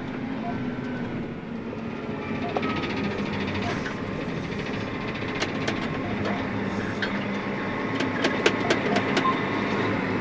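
Heavy diesel machinery running steadily, with a run of sharp clicks or clanks about five to nine seconds in.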